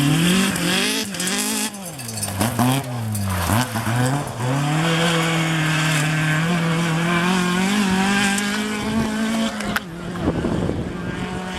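Rally car engine at full throttle, its note rising and dropping through several gear changes, then held at high revs for about five seconds before it cuts off suddenly near the end, with a brief tyre squeal.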